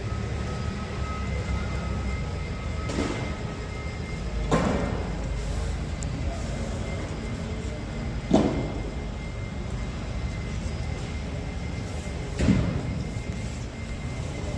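Steady low rumble and hum of a large exhibition hall during setup, with several sharp bangs that echo briefly, a few seconds apart.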